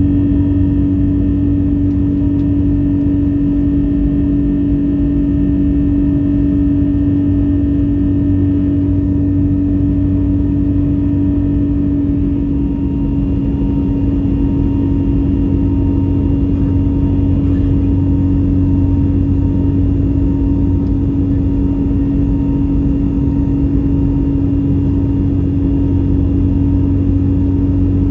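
Steady cabin hum and rumble of an Airbus A321neo with its Pratt & Whitney PW1100G geared turbofans running at low power on the ground. A strong steady drone sits under a low rumble, and the higher tones shift slightly about twelve seconds in.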